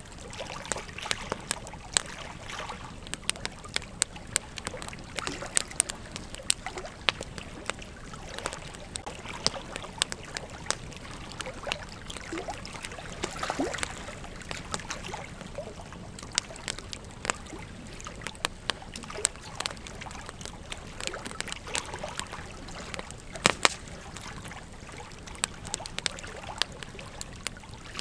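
Wood campfire crackling, with irregular sharp pops and snaps over a soft steady rush of the flames; a few louder pops stand out, one about two seconds in and one near the end.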